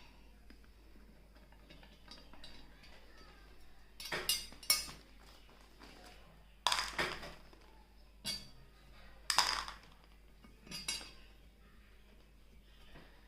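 Small metal screws and washers clinking and a screwdriver knocking as the casing screws of a diaphragm air pump are taken out and set down. There is a handful of sharp clinks a second or two apart.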